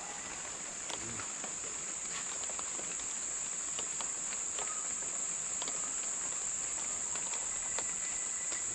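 Insects keeping up a steady, unbroken high-pitched drone, with a few faint clicks scattered through it.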